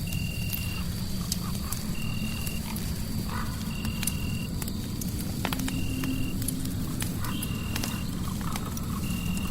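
Crackling fire over a steady low rumble of white noise, with scattered sharp pops. A short, even high-pitched chirp repeats about every second and a half to two seconds, like a night insect or frog in the soundscape.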